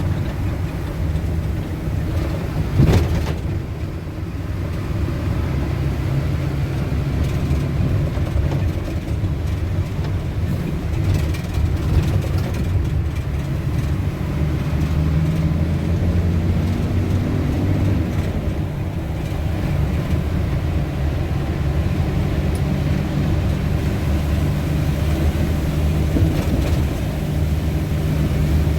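Motor vehicle driving, heard from inside the cabin: a steady low engine and road rumble, with a single sharp knock about three seconds in.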